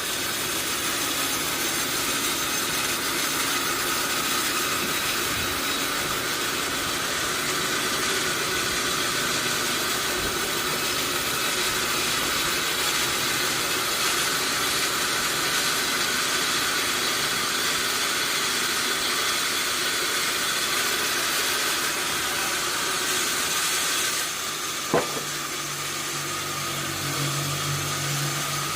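Large sawmill machinery running with a steady hiss. About 25 seconds in, the sound shifts with a single sharp knock, then a low steady hum.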